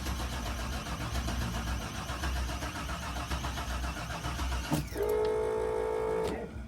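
Old GMC truck's starter cranking the engine steadily for several seconds without it firing; the fuel pump is dead, so no fuel reaches the engine. The cranking stops with a click a little before the end, and a steady buzzing tone sounds for about a second and a half.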